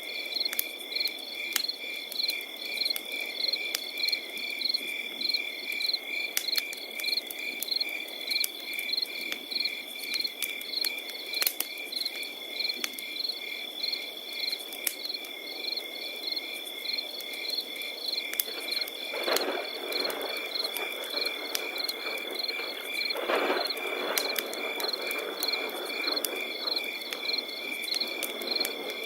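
Crickets chirping in a fast, even pulse, with a campfire crackling in scattered sharp pops throughout. Twice in the second half a brief, low rushing sound rises over them.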